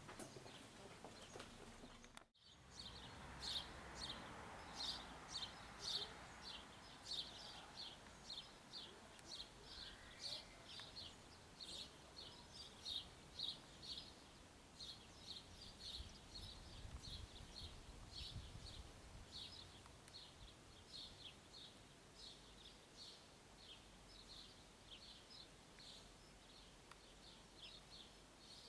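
A small bird chirping over and over, short high chirps about two or three a second, over faint outdoor background noise. The sound drops out briefly about two seconds in.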